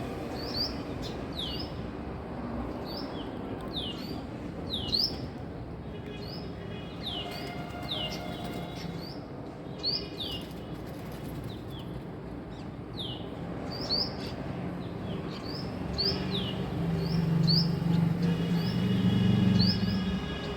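Female Asian koel calling: sharp, quickly sweeping high notes repeated in short clusters again and again. A low hum swells and becomes the loudest sound near the end.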